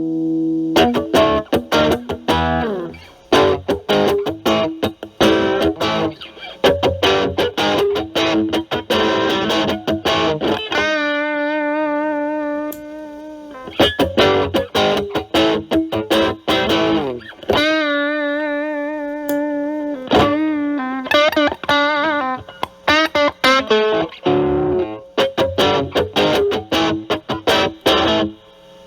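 Electric guitar, a Stratocaster with three single-coil pickups, played through a Metal Pedals Rawhide overdrive pedal at a low gain setting (about 3, kick toggle down) into a Marshall Valvestate amp's clean channel, giving a lightly driven tone. Quick runs of picked notes alternate with long held notes bent and shaken with vibrato.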